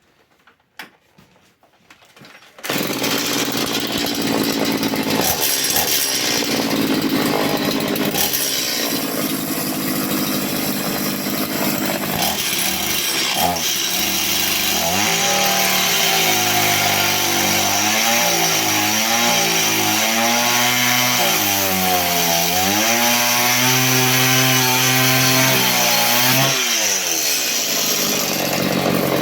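Stihl MS 180 two-stroke chainsaw fitted with a cut-off disc attachment, running and cutting metal. A few faint clicks, then the loud running sound starts suddenly about three seconds in; in the second half the engine pitch wavers and dips as it works under load.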